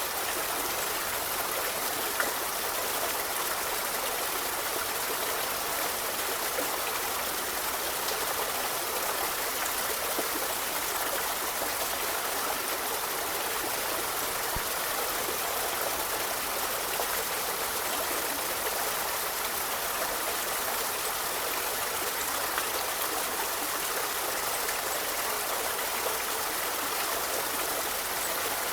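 Forest river running steadily over rocks, an even rushing and splashing of water with small splashes and drips now and then.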